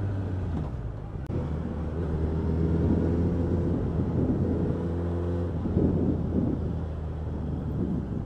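Suzuki Bandit's inline-four engine, fitted with an Ixil aftermarket exhaust, running under way. The engine note drops about half a second in, holds steady, then changes pitch again around six seconds in.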